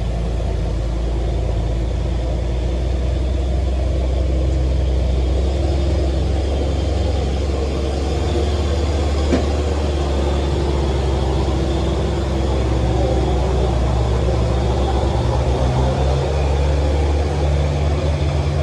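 Heavy truck's diesel engine running under load on a steep climb: a steady low drone, with a sharp click about nine seconds in.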